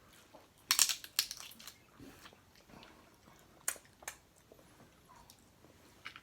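Snow crab leg shells being cracked and snapped open by hand: a cluster of sharp cracks about a second in, then single snaps a few seconds apart, with faint crunching between.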